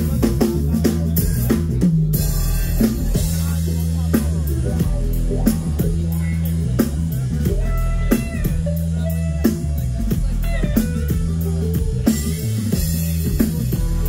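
Live rock band playing during a sound check: a drum kit keeping a steady beat with rimshots, heavy sustained low bass notes that change pitch, and electric guitar.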